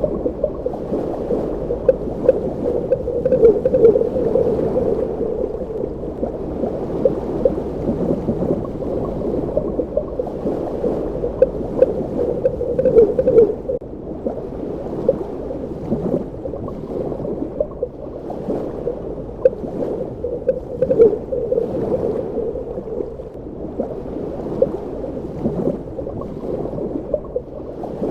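Underwater ambience: a steady, low wash of water with faint scattered bubbling ticks over it.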